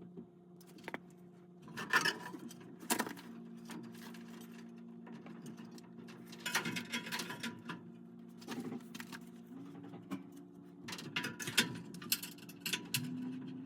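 A steady low motor hum whose pitch shifts slightly a few times, with intermittent clinks, rattles and scrapes of metal parts being handled, loudest about two and three seconds in and again in clusters near the middle and toward the end.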